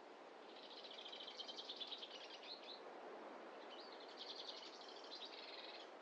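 A small songbird singing two rapid trilled phrases of about two seconds each, over a faint steady background hiss.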